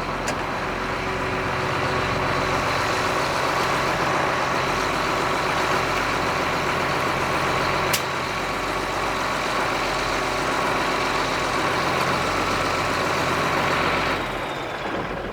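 Heavy diesel engine running steadily, with a single sharp click about eight seconds in; the engine sound fades near the end.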